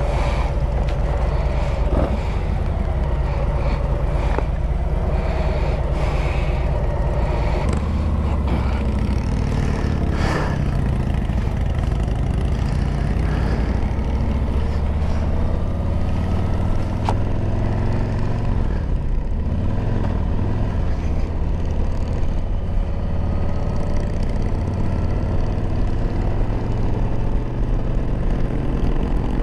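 Harley-Davidson Road Glide V-twin engine running steadily while riding. Its pitch climbs over the last several seconds as the bike accelerates.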